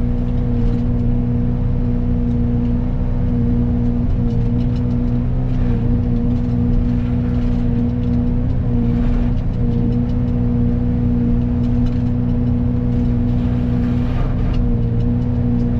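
Excavator running with its Fecon forestry mulcher head spinning: a loud, steady hum whose pitch sags briefly a few times as the drum takes load.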